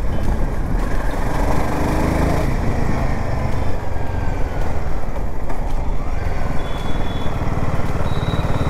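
Royal Enfield Himalayan 450's single-cylinder engine running steadily under way, heard from on the bike with wind and road noise, the revs rising briefly about a second in.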